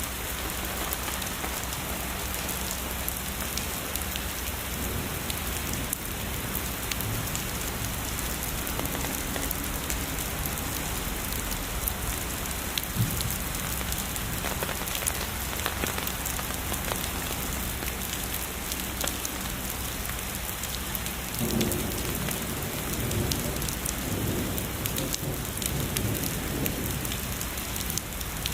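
Heavy rain falling steadily, a dense hiss with scattered sharp drop ticks. Near the end, distant thunder rolls as a low rumble for several seconds.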